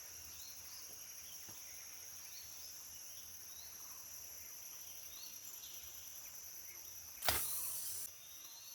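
Tropical forest insects droning steadily at a high pitch, with faint short high chirps over them. About seven seconds in, a sudden loud rushing noise lasts under a second.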